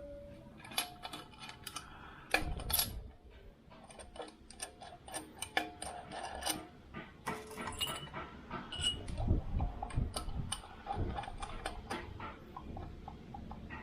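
Metal hand tools clinking and clicking irregularly, some strikes with a short metallic ring, as special tools are fitted to pull out a worn crankcase bearing.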